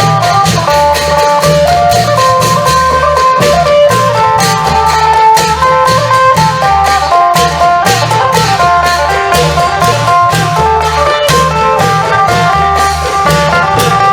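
Isan folk music: a phin (plucked lute) plays a fast run of short notes over klong yao long drums and sharp percussion strokes on a steady beat.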